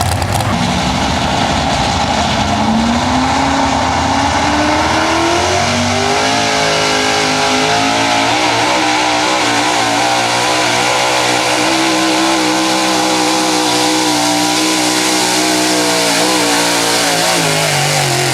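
Big-block V8 pulling truck engine at full throttle: the revs climb over the first several seconds as the truck hooks and starts dragging the weight sled, then hold high and slightly wavering down the track, and fall away near the end as the driver lets off.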